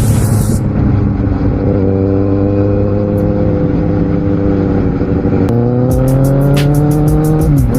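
Kawasaki Z750R's inline-four engine pulling hard, its pitch climbing steadily, dropping sharply at an upshift about five and a half seconds in, then climbing again and falling near the end. A music track's ticking beat plays over it at the start and again from about six seconds in.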